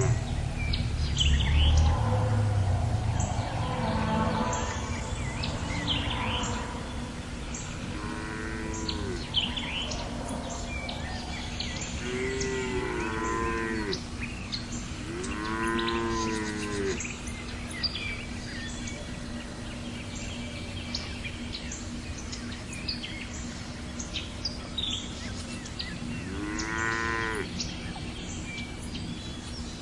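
Calves mooing in a barn pen: short, fairly high calls that rise and fall, sometimes two overlapping, coming every few seconds with a long pause before one near the end. A steady low hum runs underneath.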